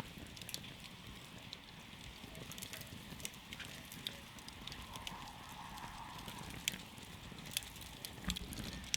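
Wood campfire crackling, with irregular sharp pops and snaps scattered over a low, steady rush of burning.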